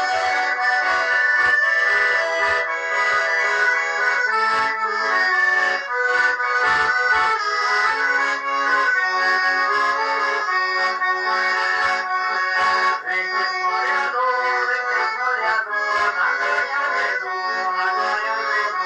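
Garmon (Russian button accordion) playing a tune: a melody with chords over short bass notes.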